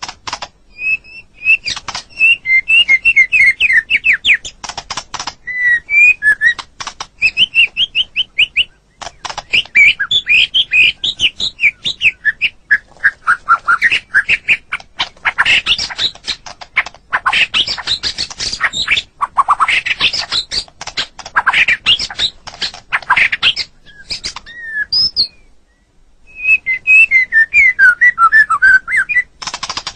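White-rumped shama singing a long, varied song of fast repeated whistled notes, rising and falling sweeps, trills and sharp chattering phrases, with a short break about 25 seconds in.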